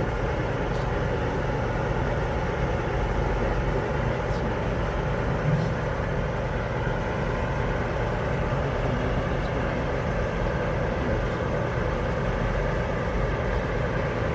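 Steady low rumble of a vehicle engine idling, with a short knock about five and a half seconds in.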